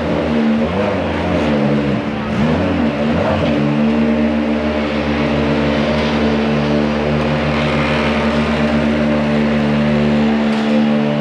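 Ferrari Challenge race car engines running, with a steady engine note throughout. Cars pass by between about half a second and three and a half seconds in, their engine pitch sweeping up and down.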